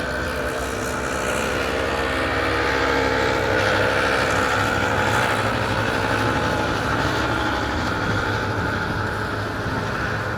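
Banger racing cars' engines running around the oval track. The sound swells to its loudest about four seconds in as the cars come by, then slowly fades.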